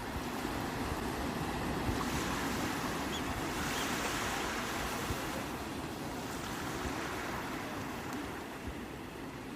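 Sea waves breaking and washing on the shore: a continuous rush of surf that swells about a third of the way in and eases off toward the end.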